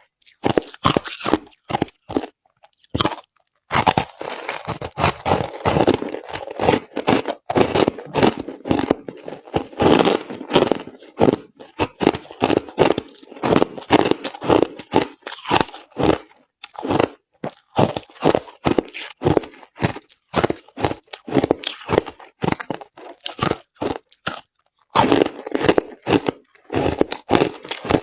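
Crushed ice being chewed: a fast, dense run of crisp crunches, with a short pause about three seconds in and another near the end.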